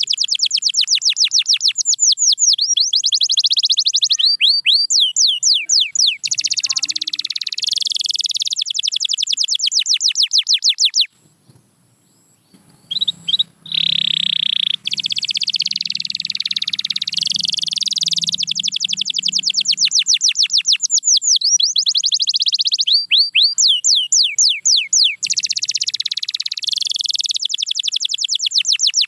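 Domestic canary singing long, fast trills of rapidly repeated high notes, switching between rolls at different speeds. The song breaks off briefly about eleven seconds in, then resumes.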